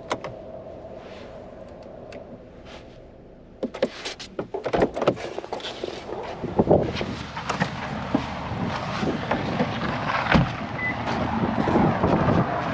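Steady hum inside a parked car, then a car door opening with clicks and knocks about four seconds in, followed by wind blowing on the microphone.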